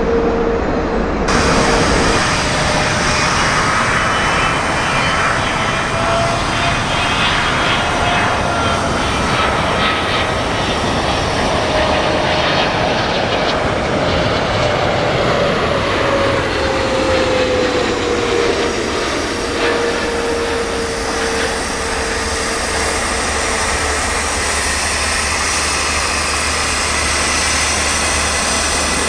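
Jet airliner's engines going past, a steady rumble with a whine that rises slightly and then falls in pitch as the aircraft passes.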